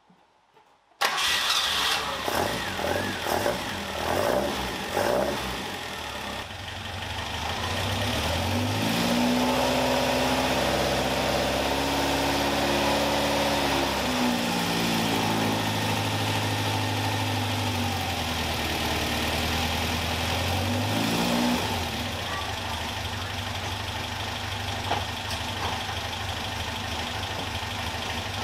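Caterham Super Seven's carburetted 1600 cc engine starting about a second in, running unevenly for a few seconds, then revved up and held at a higher speed before dropping back to idle, with a second shorter rev later. On its oversized 60 idle jet it now revs without the banging it used to make at that engine speed.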